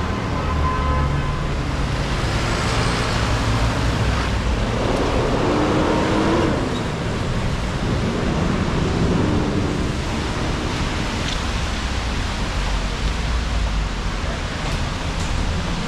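City street traffic on wet pavement: a steady hiss of tyres and rain over the low rumble of passing engines, with one engine's pitch rising and falling about five to six seconds in.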